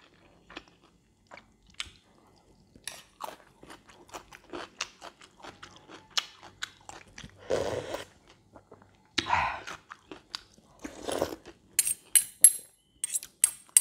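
Close-up chewing and crunching of a mouthful of fried rice with crispy pork cracklings, in many small crunches with a few louder ones about halfway through. Near the end, a metal fork and spoon clink sharply against the plate several times.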